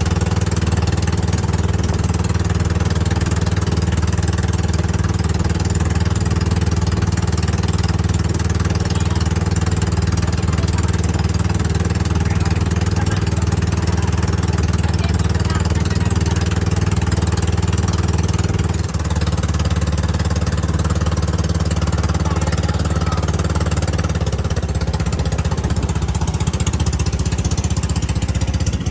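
Motorized bangka's engine running steadily under way, a loud chugging machine note; the note changes about two-thirds of the way through.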